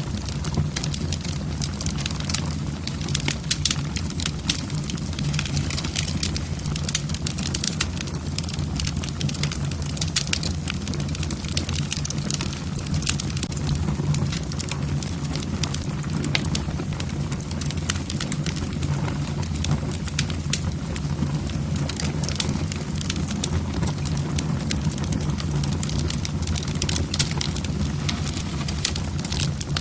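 Wood logs burning in a fireplace, crackling and popping irregularly and continuously over a steady low rumble of the flames.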